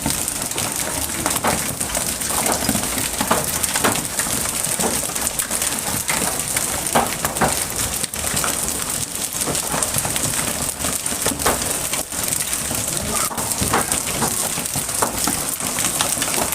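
Hailstones pelting down steadily without rain, a dense patter of many small hard impacts.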